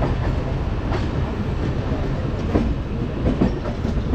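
Indian Railways passenger train running through a station yard, heard from on board: a steady low rumble of the wheels on the rails, with irregular sharp clacks as the wheels pass over rail joints and points.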